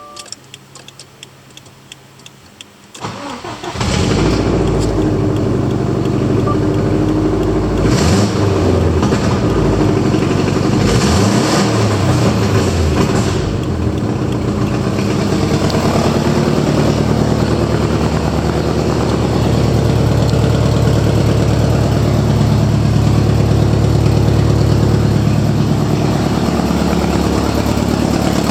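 Subaru WRX STI's EJ20 turbocharged flat-four engine cranked briefly about three seconds in and catching, then revved up and down a few times, around eight and eleven seconds in, before settling into a steady idle.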